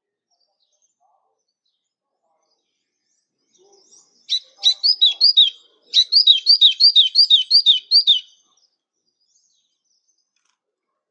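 A songbird singing: a short burst of notes about four seconds in, then, after a brief pause, a fast series of about eight repeated down-slurred whistled notes, roughly four a second, that stops just past eight seconds.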